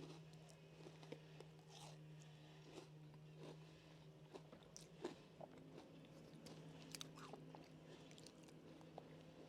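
Faint chewing and crunching of a snack, close to the microphone, with scattered small crackles over a steady low hum.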